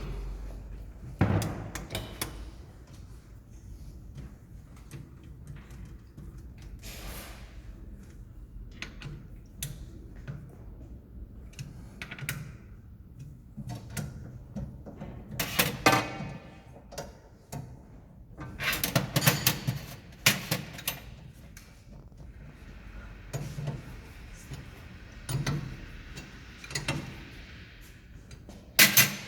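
Workbench handling noises: scattered knocks, clicks and clatter of tools and metal parts, louder in clusters about a second in, around the middle and near the end.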